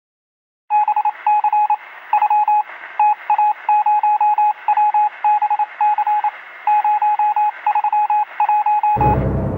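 Morse code sound effect: a single beep tone keyed in a run of short and long beeps over a narrow band of radio-like static.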